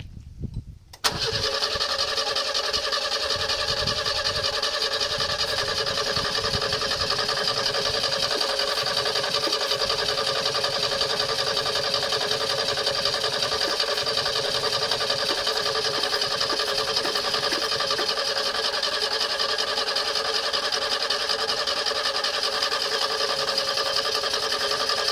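Renault 6's four-cylinder petrol engine starts abruptly about a second in and keeps running at a steady speed, with no revving.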